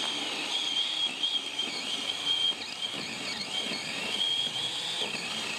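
Ryobi 18-volt cordless chainsaw running and cutting through a tree stump: a high, steady electric-motor whine over the chain's hiss, dipping in pitch several times as the chain bogs down in the wood.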